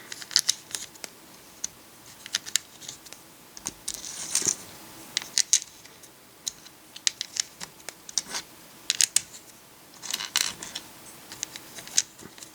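Plastic LEGO flat tiles and plates clicking as they are handled and pressed into place, irregular sharp clicks with a couple of brief scrapes of plastic sliding.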